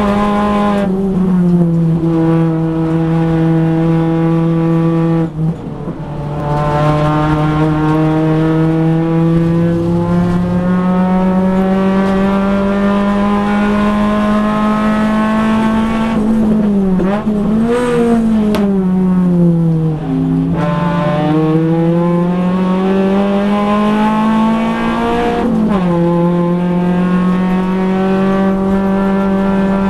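Nissan Pulsar race car's four-cylinder engine heard from inside the cabin, pulling hard, its note climbing steadily through each gear. The pitch drops sharply at upshifts near the start and again near the end, cuts out briefly about five seconds in, and wavers and dips through the middle before climbing again.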